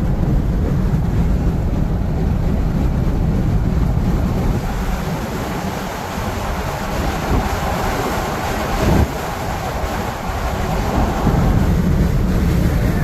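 Road noise inside a moving car's cabin: a steady low rumble of tyres and engine with wind noise over it, and a brief bump about nine seconds in.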